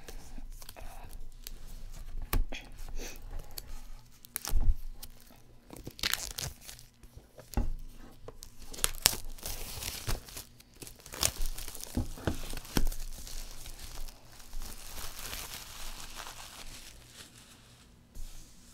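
Plastic shrink-wrap being torn and peeled off a box, crinkling and crackling, with scattered sharp rips.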